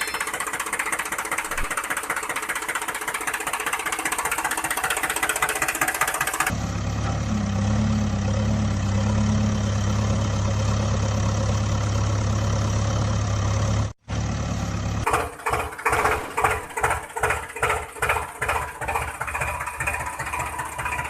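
Vehicle engine running, in three sections with abrupt changes between them: first a rough, higher-pitched run, then a steady low hum, then a rhythmic chugging pulse after a brief dropout.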